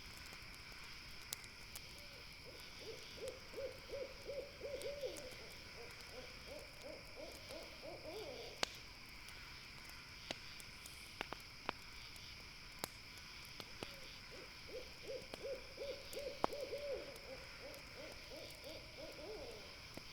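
An owl calling in two quick runs of low hoots, each run lasting about five seconds, the notes rapid at first and then more spaced. Under it, a campfire crackles with scattered sharp pops, over a steady high hum of night insects.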